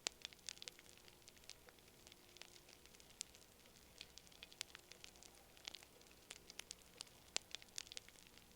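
Wood fire crackling quietly: irregular sharp snaps and pops, some louder than others, over a faint hiss.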